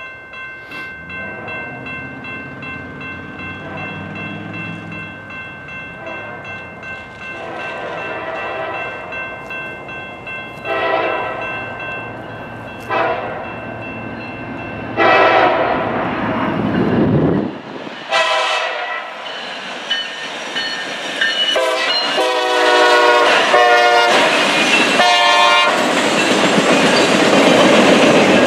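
Norfolk Southern diesel freight locomotives, an SD70ACe leading a C44-9W, approaching and passing a grade crossing: the engines grow louder under the steady ringing of the crossing bell, the lead locomotive's horn sounds a series of blasts, and in the second half the locomotives pass close, followed by the rattle of Roadrailer trailers over the rails.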